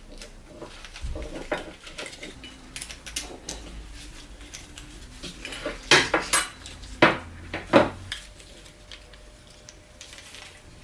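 Metal parts and tools clinking and knocking against each other: scattered light clicks, then several sharp metallic knocks in the second half.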